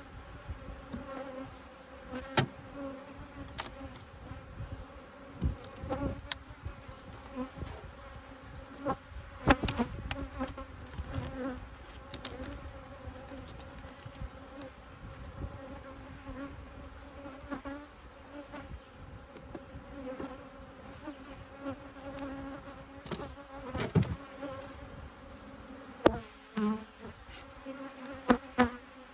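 Honeybees buzzing steadily in a dense swarm around an opened hive, agitated by the handling. Scattered sharp knocks and clicks break in, loudest about a third of the way in and again near the end.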